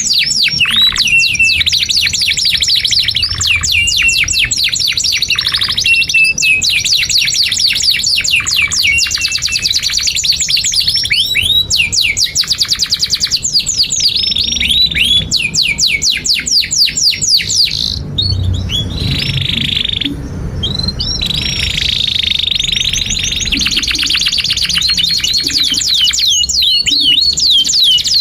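Canary singing a long, continuous song of very fast trills, rolling notes and rising sweeps, barely pausing.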